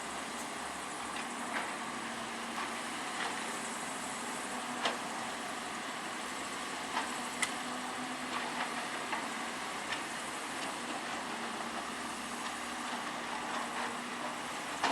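Heavy construction machine's engine running steadily, with a few sharp clanks now and then.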